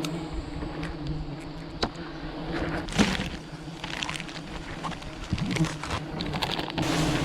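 Steady low drone of a honeybee swarm, with scattered sharp clicks and crackles over it. The drone fades through the middle and comes back near the end.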